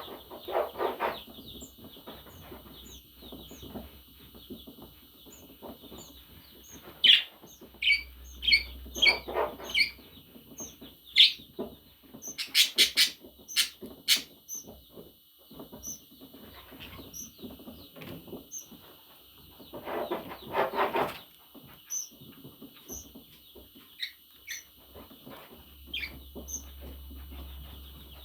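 Pet budgerigar chirping and chattering in short, high calls, with a quick run of sharp clicks about halfway through.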